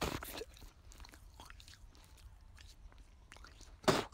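A mouthful of wood-stove biochar (charcoal) being chewed, with faint gritty crackles. There is a louder sound right at the start and the loudest one about four seconds in.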